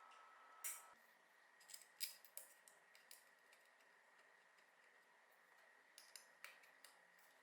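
Faint, scattered light clicks and snips from small hand work on metal and plastic lamp parts, some of them in quick clusters.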